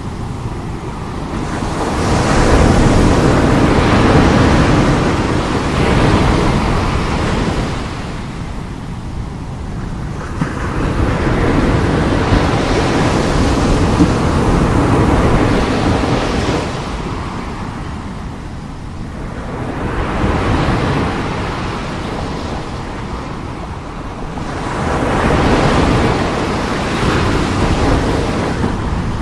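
Strong sea waves breaking and washing ashore, the surf rising and falling in four big swells about nine seconds apart.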